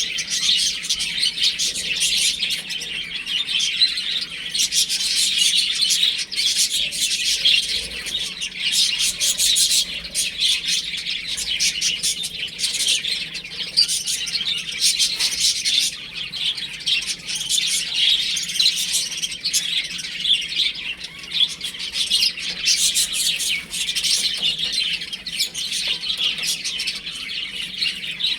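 A brood of baby chicks peeping continuously, many short high chirps overlapping without a break.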